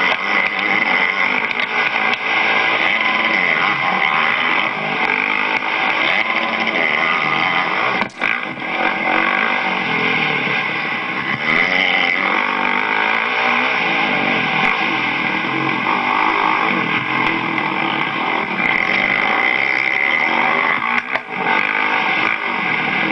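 250-class motocross bike engine revving hard, its pitch rising and falling with the throttle as it runs the track. The sound drops out briefly about eight seconds in, then picks straight back up.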